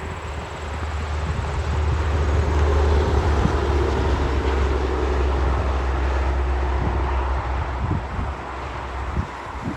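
A heavy truck driving past: a low rumble that builds over the first few seconds and fades away toward the end.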